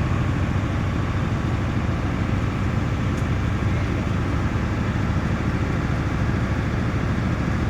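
A steady low rumble with hiss over it, even throughout, with no separate events.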